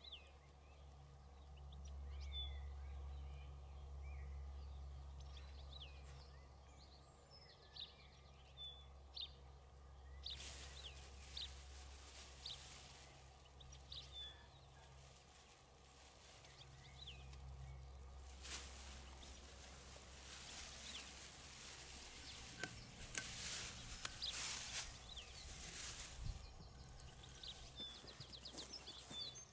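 Wild birds chirping, with a low wind rumble on the microphone and patches of rustling noise. A quick run of faint ticks comes near the end.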